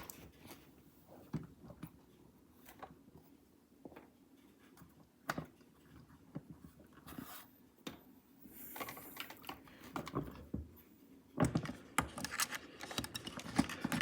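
Small clicks, scratches and rustles of packing foam being picked out of a plastic model locomotive's handrails: sparse taps at first, a brief rustle about nine seconds in, and busier handling near the end.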